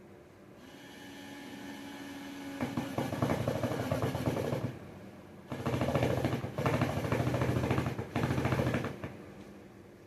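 Power drill running. It spins up, then runs rough and louder as it drives into the work, stops briefly, and drives again in short runs.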